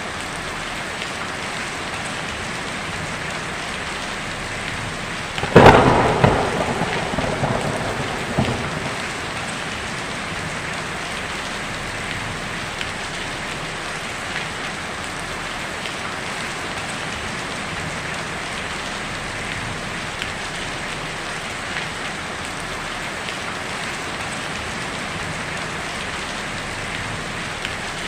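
Heavy rain drumming steadily on a tin roof, with a single sharp thunderclap about five and a half seconds in that rumbles away over a few seconds.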